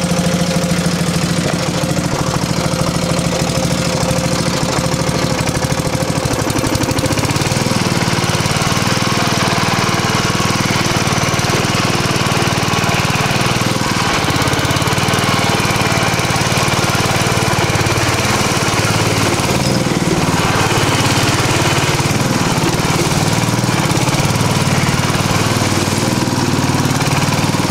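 Small engine of a converted riding lawn mower running, steady at first, then from about seven seconds in rising and falling in pitch as the machine is driven around.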